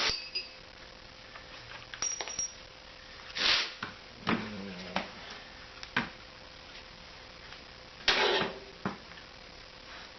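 Scattered metallic clinks and taps with two short scraping rushes, about three and a half and eight seconds in. These are the sounds of handling a freshly cast aluminum muffler broken out of its sand mold.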